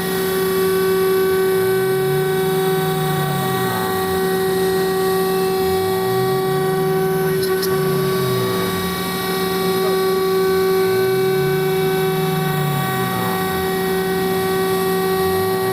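CNC router spindle turning a 4 mm single-flute carbide end mill at about 22,000 rpm, a steady high whine, as it mills polyethylene. Under it, the axis drive motors' tone rises and falls in arcs every few seconds as the machine traverses back and forth.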